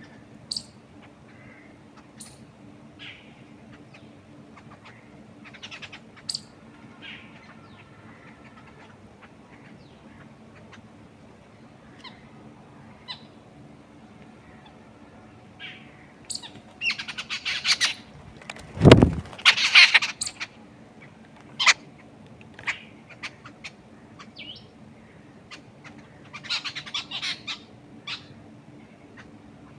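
Wild birds chirping and calling, with short scattered chirps and two louder clusters of rapid, raspy calls, one in the middle and one near the end. A single loud thump comes midway, and a faint steady low hum runs underneath.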